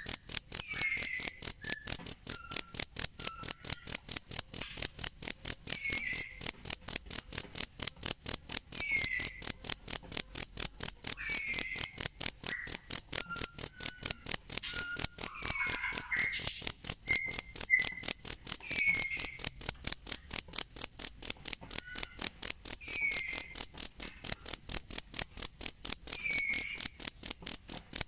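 Cricket (jangkrik) chirping in a steady, even rhythm of about three high-pitched chirps a second. Softer, lower, short chirps from another creature sound every few seconds.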